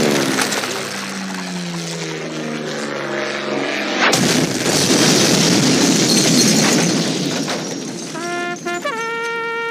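Cartoon explosion sound effect: a long falling tone, then a sudden loud blast about four seconds in whose noise dies away over about four seconds. Brass notes start near the end.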